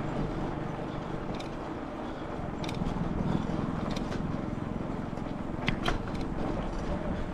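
Steady rumble of wind and tyre noise from a Cradiac Alpha mountain bike riding over rough ground, with short sharp rattles from the bike a few times.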